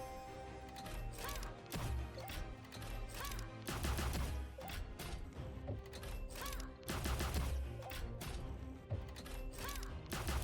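Online slot game's bonus-round soundtrack: music over a deep pulsing beat, with a run of sharp hit and impact effects about one or two a second as the reels and symbols land.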